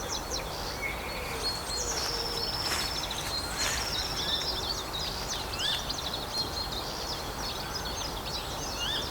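Several small birds singing and calling, with many short chirps and whistles and a couple of brief high trills, over a steady low rumble of background noise.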